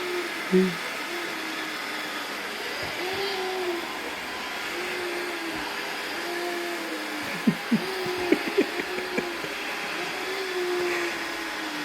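iRobot Roomba robot vacuum running with a steady whir, and a whine that rises and falls about every second and a half. A few sharp knocks come in the middle.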